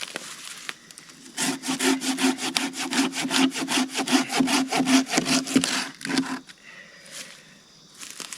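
Hand saw cutting through a downed pine limb with rapid, even back-and-forth strokes, several a second, for about five seconds before stopping. A few faint knocks follow.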